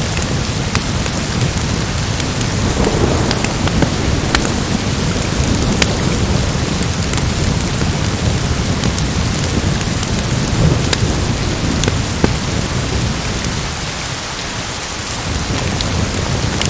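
Storm ambience: a steady hiss of heavy rain over a low rolling rumble of thunder, with scattered sharp crackles throughout. The rumble eases briefly near the end.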